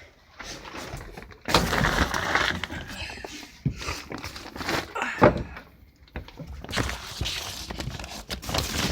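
Irregular rustling and handling noise with a few sharp knocks and clicks, from movement and handling of gear in an attic crawl space.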